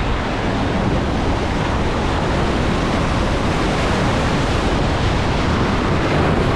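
Steady rush of surf and wind at the shoreline, with wind buffeting the microphone.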